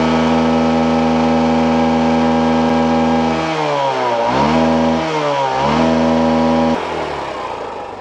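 Hero motorcycle's single-cylinder engine being revved hard at full throttle while standing still. It is held at high revs, dips and picks up again twice, then drops away suddenly about seven seconds in. This is a free-rev smoke test; the owner sees black exhaust smoke at full throttle and takes it as the sign that the bike runs rich and burns too much fuel.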